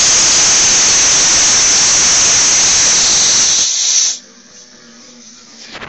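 Loud steady hiss of compressed air rushing out of an air compressor, cutting off suddenly about four seconds in; a faint steady hum remains after it.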